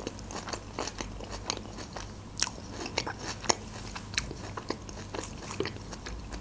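Close-up chewing of a mouthful of Caesar salad: a string of crisp, irregular crunches and wet mouth clicks.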